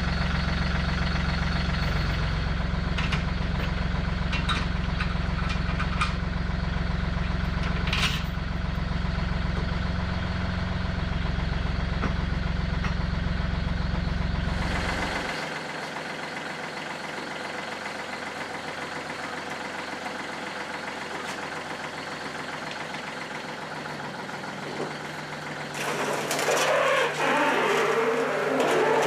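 Engine idling steadily, then shut off about halfway through. Near the end a loud, rough, scratchy noise starts.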